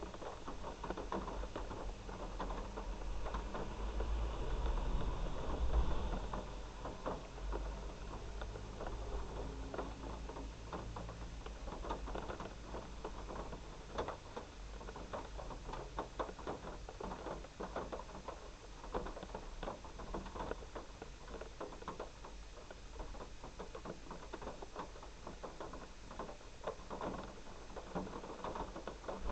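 Heavy rain pattering, a dense stream of drops striking. A low rumble swells and fades around five seconds in.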